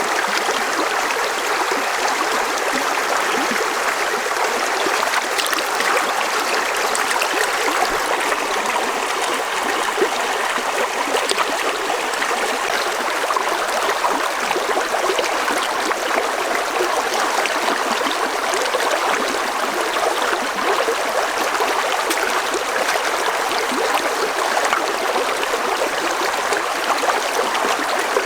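Running water of a stream, a steady rush with many small splashes and trickles.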